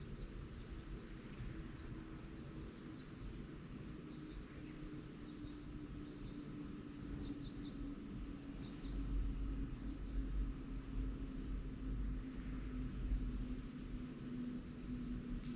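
Outdoor background with a distant engine drone that slowly drops in pitch, and a high insect chirping about twice a second. A low rumble grows louder about halfway through.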